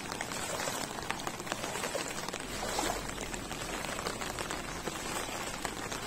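Monsoon rain falling steadily on shallow floodwater and wet ground, a dense patter of fine drops.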